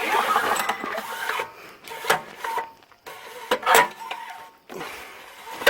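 Recoil pull starter on a Manco Warrior buggy's engine, yanked several times in a row: a raspy, scraping pull with the engine turning over but not firing. The pull-start mechanism is binding and needs fixing.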